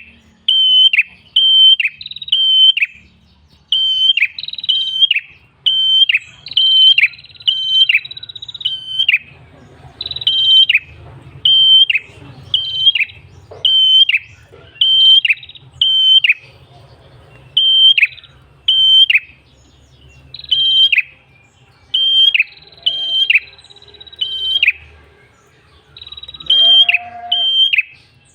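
Tailorbird (prenjak kepala merah) singing a loud, rapid run of sharp, high notes in bursts of two to four, each note dropping sharply at its end, repeated over and over with short pauses between bursts.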